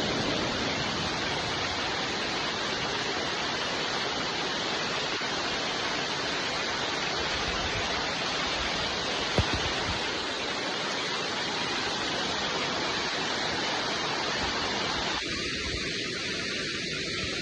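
Steady, even rain falling, with a single sharp click about halfway through.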